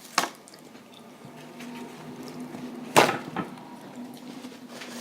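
A few sharp knocks and clicks from handling food and containers while eating, the loudest about three seconds in, over a faint steady hum.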